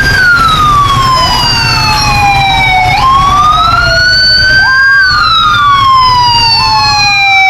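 Police car siren wailing, starting suddenly. Its pitch falls slowly over about three seconds, jumps back up and falls again, with a second siren tone sweeping over it, all above a steady low rumble.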